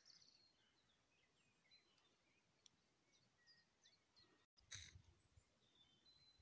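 Very faint birdsong: scattered short chirps and whistles of small birds over near silence, with one brief soft noise about three-quarters of the way through.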